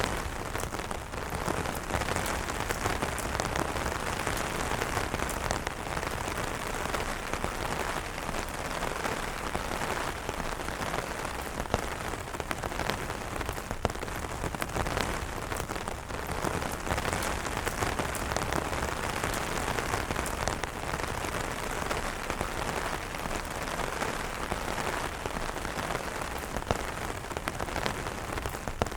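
Steady rain falling on umbrellas: an even hiss with many separate drop hits on the fabric.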